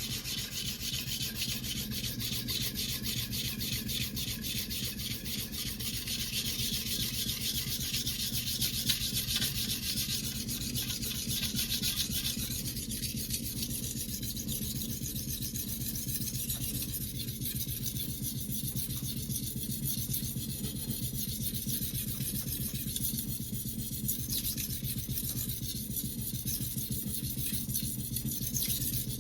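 A Global stainless-steel kitchen knife being hand-sharpened on a whetstone: continuous rasping of the blade across the stone, a little less bright from about twelve seconds in.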